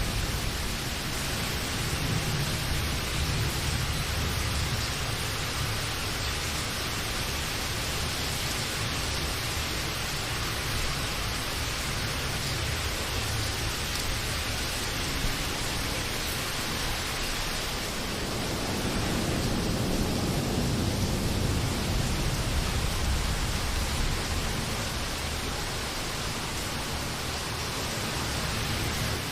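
Steady, even rain hiss. About two thirds of the way through, a low rumble of distant thunder swells and fades under it.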